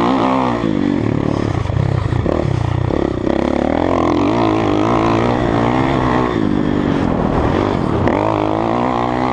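Kawasaki KX450F single-cylinder four-stroke dirt bike engine revving hard, its pitch climbing and dropping again and again as it runs through the gears.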